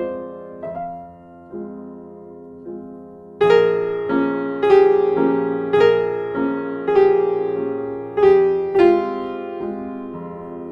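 Background piano music: soft single notes, then louder chords struck about once a second from a few seconds in.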